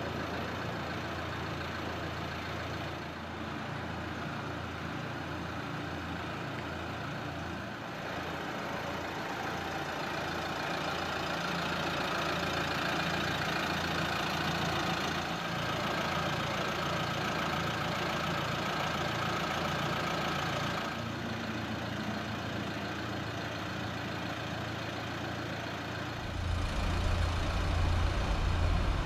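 Nissan Juke 1.5 dCi turbocharged four-cylinder common-rail diesel idling steadily. Near the end a deeper low rumble comes in louder.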